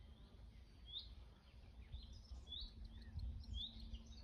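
A small bird calling repeatedly, a short rising chirp about once a second, over a faint low rumble and a faint steady hum.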